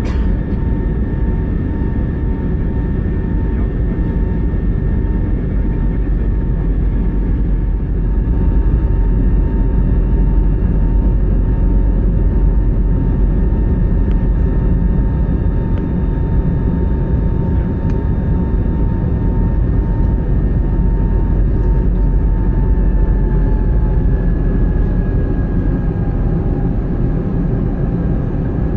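Jet airliner's engines heard inside the cabin: a loud steady rumble with a high whine. The whine drops slightly in pitch about 22 seconds in.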